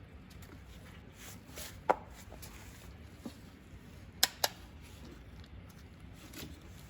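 Scattered light knocks and clicks of hard parts being handled on a workbench. The loudest comes about two seconds in and a quick pair follows a little past four seconds; no motor runs.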